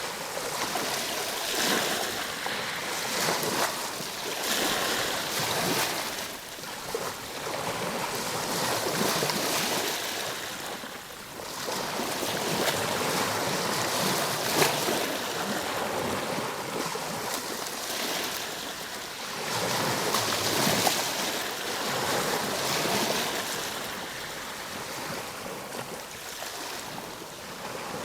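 Ocean waves breaking and washing on a shore, a continuous surf that swells and eases every few seconds, with a few short lulls.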